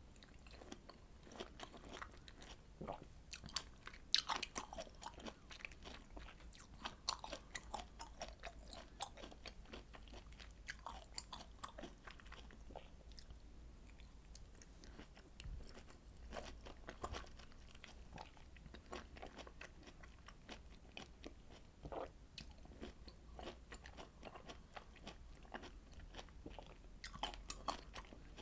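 Close-miked chewing and biting of citrus fruit (oranges, mandarins or hallabong): a steady run of small clicks and smacks from the mouth, busier in the first half and again near the end.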